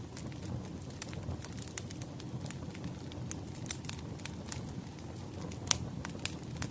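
Wood fire crackling: a steady low rumble of burning logs with irregular sharp pops and snaps, the loudest pop coming near the end.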